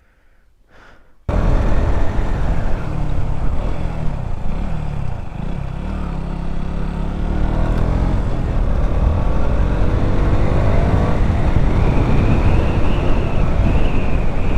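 Wind buffeting the microphone over a KTM Duke 200's single-cylinder engine as the motorcycle rides. The engine pitch rises and falls with the throttle. The sound starts suddenly about a second in.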